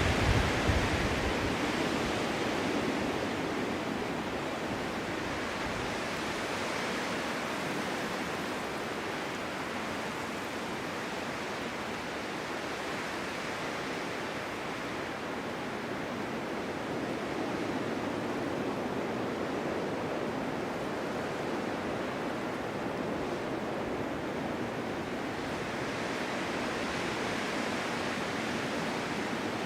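Strong winter wind blowing in gusts, a steady rushing hiss that swells and eases slowly, strongest in a gust at the very start.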